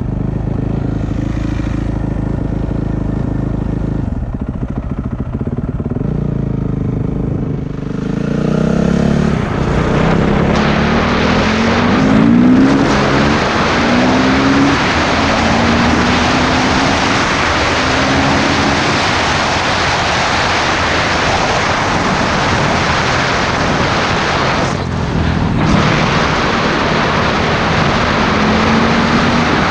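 Motorcycle engine running steadily, then from about eight seconds in pulling harder through several gears, its pitch climbing and dropping back at each shift under a loud rushing noise. There is a brief lull about 25 seconds in, and near the end it climbs again.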